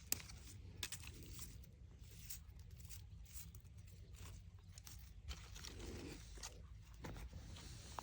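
Dry plant stems and dead flowers crunching and snapping as they are pulled off by hand, in short irregular crackles and clicks.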